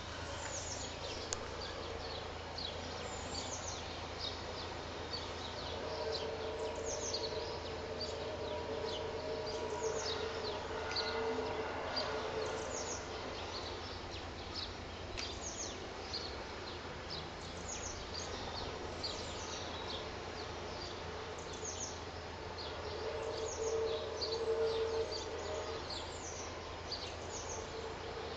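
Birds chirping all through over a steady low hum, with a long droning tone of two or three held pitches sounding twice: from about six seconds in for several seconds, and again around twenty-three seconds in. The droning is the 'strange sound' reported in the sky in 2012.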